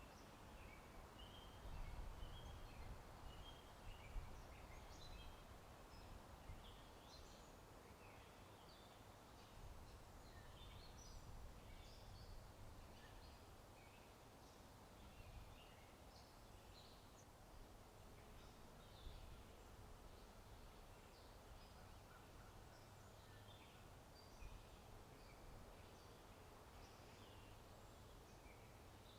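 Faint chorus of small birds chirping and singing over a low wind rumble, with a few soft taps here and there.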